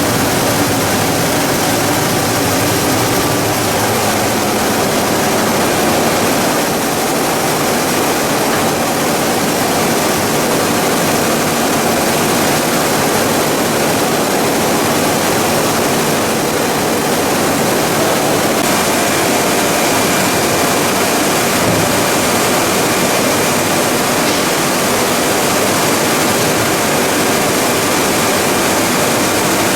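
Plastic pelletizing line machinery running steadily: a loud, unbroken machine noise with a few faint steady tones in it, one higher tone coming in a little past halfway.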